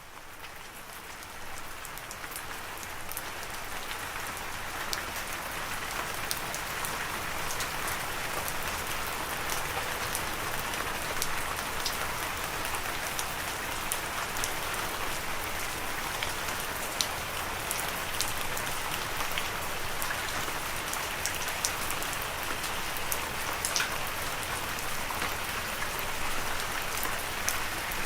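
Steady rain falling, with scattered individual drops tapping sharply over the even hiss. It fades in from quiet over the first few seconds.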